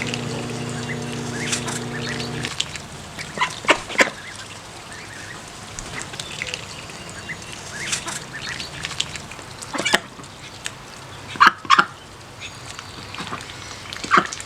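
Ducks quacking in short, scattered calls: a pair about four seconds in, single quacks and a quick double quack later on. A low steady hum cuts off about two and a half seconds in.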